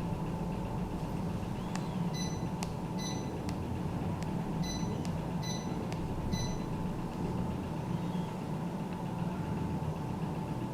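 Electric LED fireplace giving five short, high electronic beeps over a few seconds, the kind of acknowledgement beep an appliance makes as its settings are changed, over a steady low hum.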